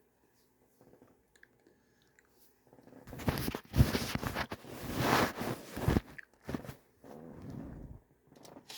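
Close-up chewing and crunching of a mouthful of yogurt with crunchy mix-ins. The crunching is loudest for about three seconds partway in, then gives way to softer chewing.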